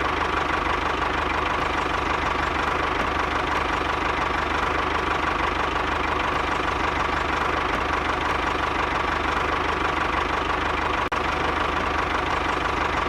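Steady engine idling sound with an even knock, unchanging in pitch and level, broken only by a brief dropout about eleven seconds in.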